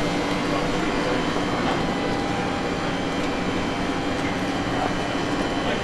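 Steady hum and running noise of a train, with several steady tones held through.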